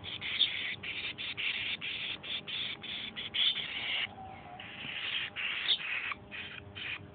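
A baby bird calling in a quick series of short, harsh cheeps, about three a second, with a brief pause about four seconds in before the calls start again.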